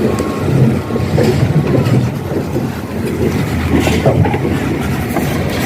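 Heavy truck's diesel engine running with a loud, steady low rumble, a reversing alarm beeping near the start.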